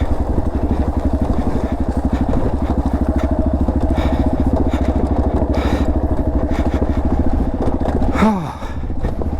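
Dirt bike engine running steadily at low revs with a fast, even chug while the bike creeps down a steep off-road descent. About eight seconds in there is a short falling sound and the engine briefly quietens.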